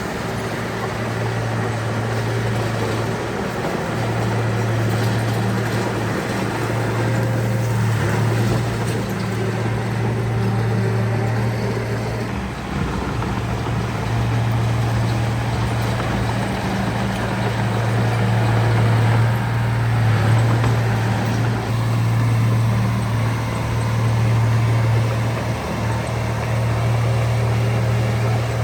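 Heavy construction machine's diesel engine running steadily under load, a low, even drone throughout.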